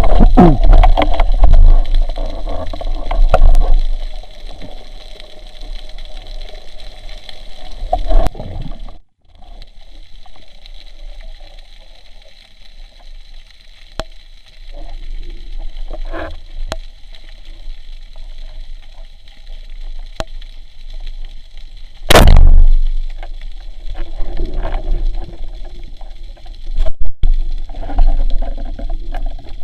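Water sloshing and gurgling as heard through a camera's waterproof housing in the sea, with a steady low rumble and scattered sharp clicks. There is a loud rush of water about two-thirds of the way through.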